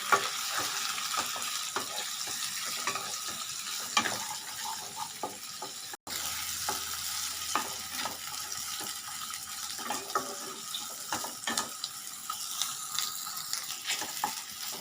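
Chicken sausage pieces frying in hot oil, a steady sizzle, while being stirred, with many small clicks and scrapes of the utensil against the pan.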